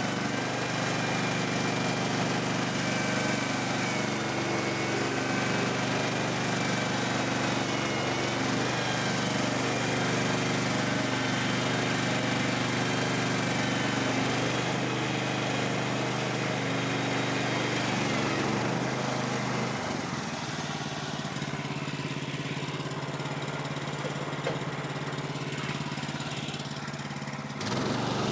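Gas engine of a Woodland Mills portable bandsaw sawmill running steadily, with a high wavering whine over it that fades out about two-thirds of the way through.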